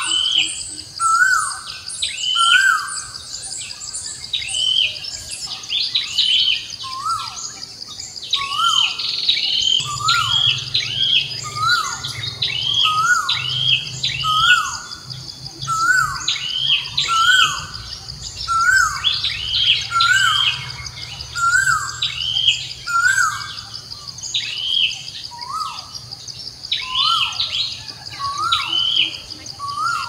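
Birds calling, short notes that drop in pitch repeating about once a second, over a steady high-pitched insect drone.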